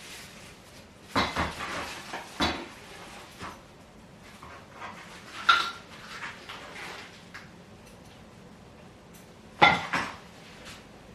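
A few separate knocks and clinks of furniture parts and hardware being handled during assembly. The loudest come about a second in and near the end.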